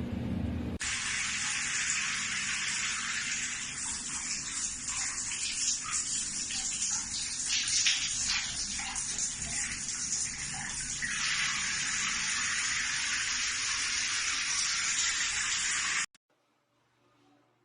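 Water spraying steadily from the shower head of an electric instant water heater, a continuous hiss that starts about a second in after a brief low hum and cuts off suddenly near the end.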